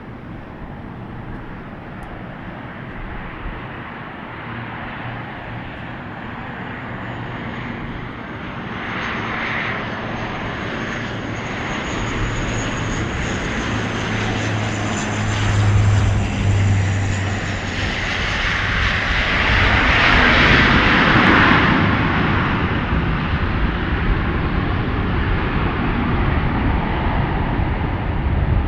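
Airliner engines growing steadily louder as the plane flies close by, with a high whine over a low drone. The sound is loudest about twenty seconds in and stays loud afterwards.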